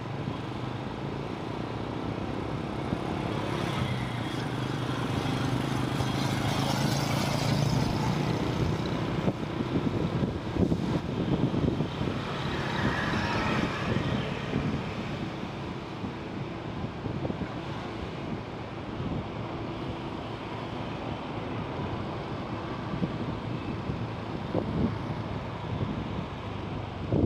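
Motorcycle engine running while riding through city traffic, with wind buffeting the microphone. The engine is loudest about six to eight seconds in.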